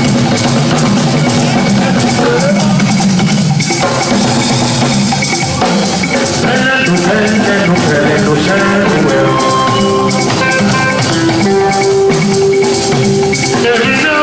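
A live band playing, with a drum kit keeping the beat under held instrument notes.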